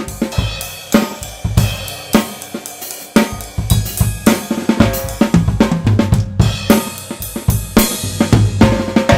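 Tama Swingstar drum kit with Meinl cymbals played continuously in a busy groove, drum and cymbal hits throughout, with a brief lull in the low drums about three seconds in. Recorded on a Blue Yeti USB microphone.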